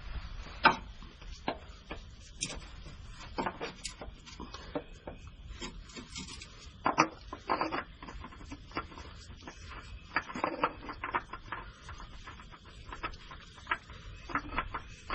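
New oil filter being spun by hand onto the filter mount of a 5.3 L engine: irregular light clicks, knocks and rubbing of hands and the filter against the mount.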